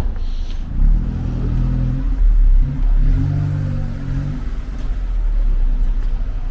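A car engine running close by, rising in two spells of revving over a low rumble.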